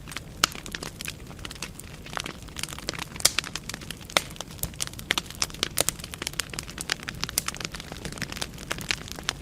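Wood fire burning in a fireplace: irregular sharp crackles and pops of burning logs over a soft steady rumble of flames.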